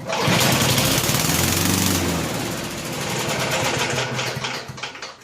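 Small Tecumseh engine of a walk-behind lawn mower catching and running for about four seconds, then dying away near the end: an engine that won't stay running, which the owner suspects is a fuel delivery problem.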